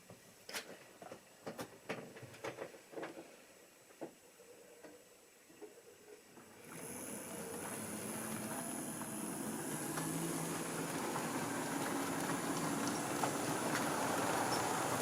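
A few light clicks and taps, then about seven seconds in a model train starts running: a steady noise of wheels on the rails with a high steady motor whine, growing slightly louder.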